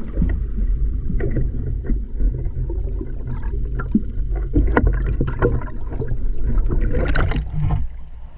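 Boat moving across water: a steady low rumble with scattered knocks and splashes, and a brief rush of spray about seven seconds in.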